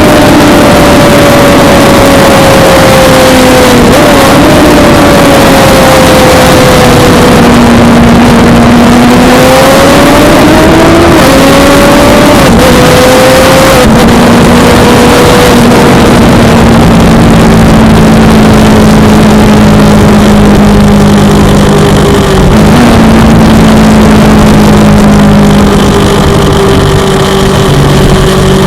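Suzuki GSX-R600 inline-four engine under a loud rushing wind noise. The revs fall and rise a few times, then hold a steady lower note through the second half.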